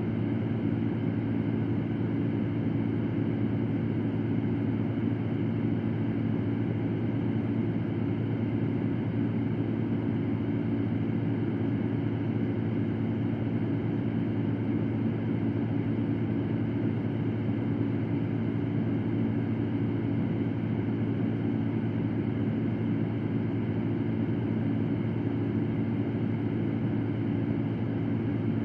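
Electric fan running steadily: an even whooshing hum with a low drone, unchanging throughout.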